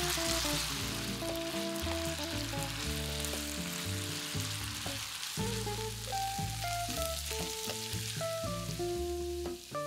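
Diced potatoes sizzling in hot oil in a frying pan, stirred and turned with a wooden spatula; the sizzle thins toward the end. Soft background music plays under it.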